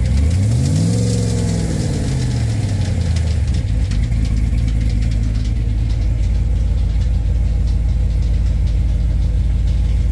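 2003 5.7 Hemi V8 with Eagle heads, an FRP Hellfire 2.0 camshaft and Hooker Blackheart headers, running on its newly installed FRP tune. It is revved once, rising to a peak about a second in and falling back by about three seconds in, then idles steadily at around 1,000 rpm.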